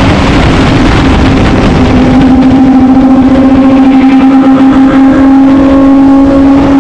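Motorcycle engine running at a steady cruising speed under wind rush. About two seconds in, the engine note firms up to a strong, even tone and the rush drops back.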